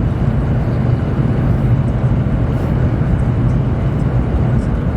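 Chinese high-speed train running at speed, heard from inside the carriage: a steady low rumble and hum with an even rushing noise over it.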